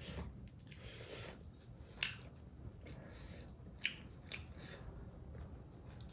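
Close-up mukbang eating sounds: a person chewing and biting food, with scattered wet mouth clicks and smacks.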